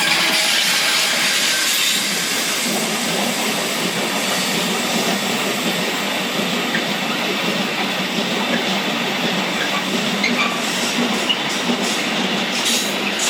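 Train passing on the line: a steady rush of wheels running on the rails.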